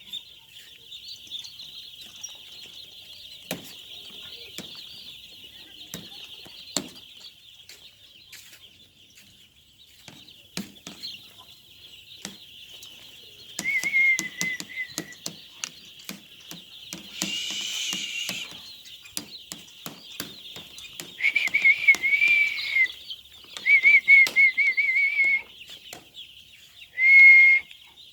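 Poultry-house chickens: a steady dense chorus of peeping from many birds, with scattered sharp clicks of pecking and wing flaps. A brief squawking, flapping burst comes midway, and several loud wavering whistled calls come in the second half.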